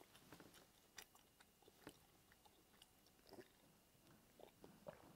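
Near silence with faint chewing sounds and small scattered clicks from someone eating at close range.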